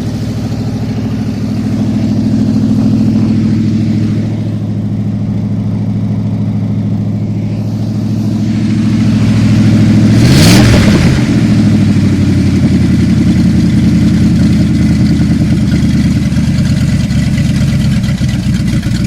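1974 Plymouth Cuda's 360 V8 with a mild cam and stock exhaust manifolds, running steadily after a cold start, blipped up briefly about halfway through and then settling at a slightly higher idle. It runs a little rough, which the owner puts down to the engine being a bit out of time.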